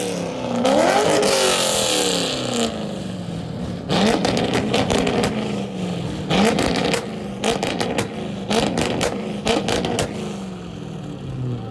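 Car engines revving, their pitch rising sharply and falling back several times. From about four seconds in, bursts of rapid sharp pops come in quick clusters.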